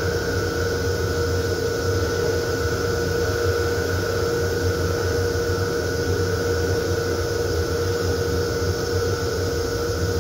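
Steady running noise of an M7 electric railcar heard inside its small restroom: a low rumble with a constant hum and a fainter higher whine.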